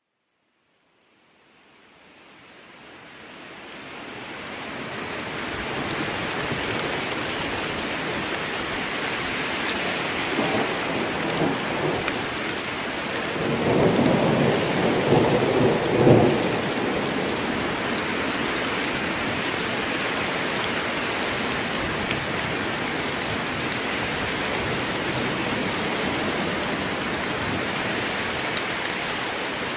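Steady heavy rain falling in a forest, fading in from silence over the first few seconds. A roll of thunder rumbles about halfway through.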